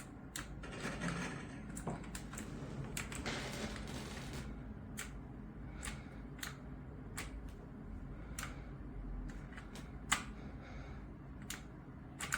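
Keys of a SteelSeries Apex 5 mechanical keyboard with clicky Hybrid Blue switches being pressed: a flurry of quick typing in the first few seconds, then single key clicks about once a second, the sharpest about ten seconds in.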